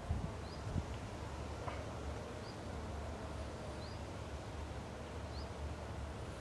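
Outdoor ambience: a small bird gives short, high rising chirps every second or two over a steady low rumble. There are two dull thumps in the first second.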